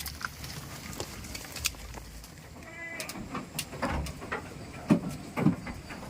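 Goats bleating, a short call near the middle followed by a few more brief calls, with scattered clicks and knocks.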